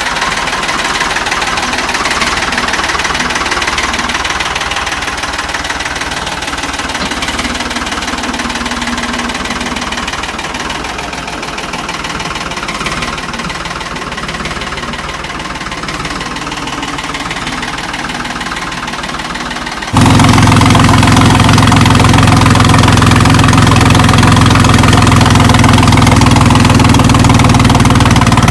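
Tractor diesel engine running steadily. About twenty seconds in the sound jumps abruptly much louder, with a strong low drone.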